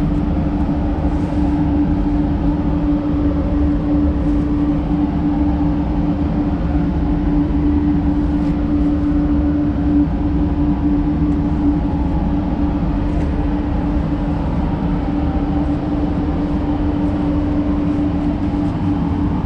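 Spray booth ventilation fans running steadily, a constant hum with one strong unchanging tone over a low rumble.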